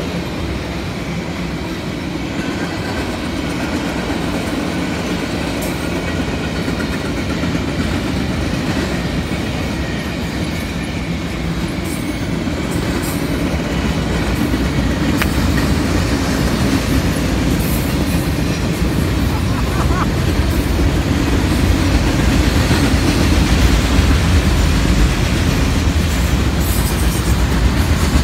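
Freight train of loaded flatcars rolling past, its steel wheels running on the rails in a steady low rolling noise with faint scattered clicks, slowly getting louder toward the end.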